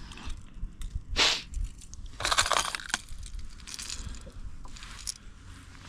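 Plastic fishing tackle being handled: several short bursts of crinkling rustle with small clicks, as lures and lure boxes are rummaged through.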